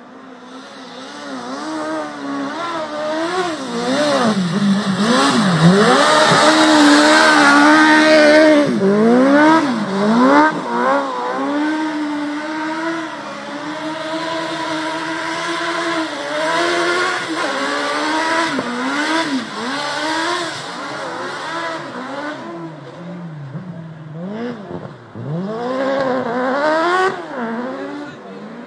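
Car engine revving up and down over and over, driven hard with wheelspin in snow. A loud rushing noise rides over the engine from about four to nine seconds in.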